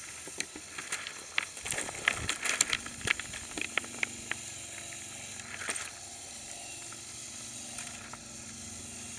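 Lego Technic RC trial truck crawling down rocks: a run of sharp plastic clicks and knocks as it drops over them, then a steady electric motor whine from about three and a half seconds in.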